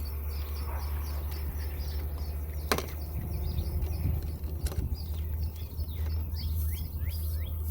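A bird calling over and over in short high chirps, about three a second, with a few falling notes near the end, over a steady low hum. A single sharp click about three seconds in.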